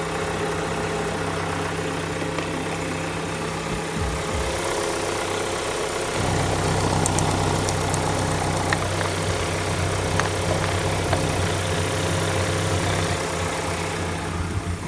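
Renault Laguna 2.0 petrol engine (N7Q704) idling steadily, growing a little louder and deeper about six seconds in.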